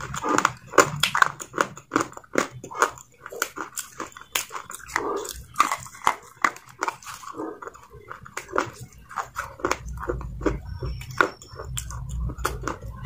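Close-miked crunching and chewing of a crumbly grey substance: a dense, irregular run of sharp crackles several times a second, with a low rumble underneath near the end.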